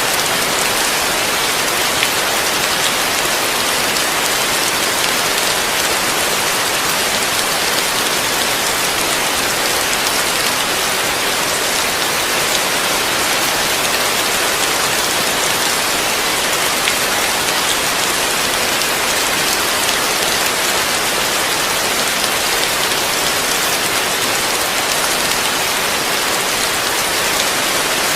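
Heavy rain falling steadily, heard from under a roof: a dense, even hiss of drops that holds at one level throughout, with no thunder.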